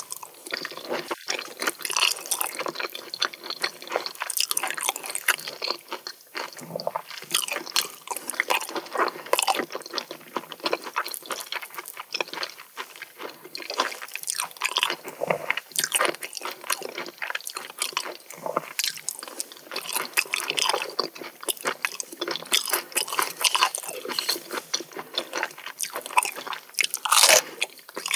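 Close-miked eating sounds: steady chewing and biting with many crunchy clicks and wet squishy bites, beginning on a mouthful of raw oyster.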